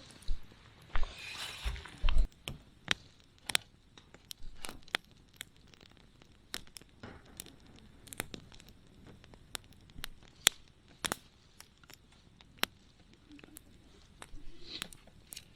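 Wood campfire crackling: irregular sharp pops and snaps, a few loud ones standing out, with a brief rustle and low thumps about one to two seconds in.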